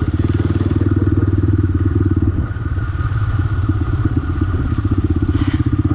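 Motorcycle engine running steadily with a fast, even pulse. A short rattle comes near the end.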